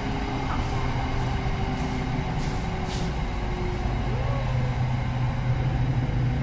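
Cabin noise of an SRT Red Line electric commuter train on the move, heard from inside the carriage: steady running noise with a constant low hum.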